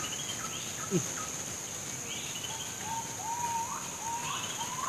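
Tropical forest morning: a steady high insect drone with repeated short rising bird calls. A single brief low falling sound stands out about a second in.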